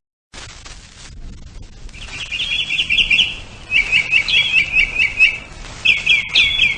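A small bird chirping in quick series of sharp notes, in three bouts starting about two seconds in.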